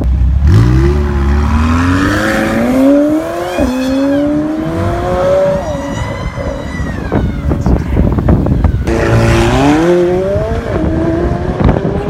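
McLaren 720S twin-turbocharged 4.0-litre V8 accelerating hard: the engine note climbs, drops sharply at an upshift of the dual-clutch gearbox and climbs again. It fades about six seconds in, then a second hard pull comes about nine seconds in with another quick upshift.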